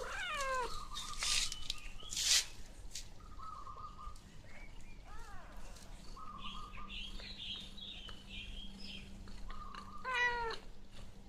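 Cat meowing: three separate mews with falling or rising-then-falling pitch, one right at the start, one about five seconds in, and one near the end.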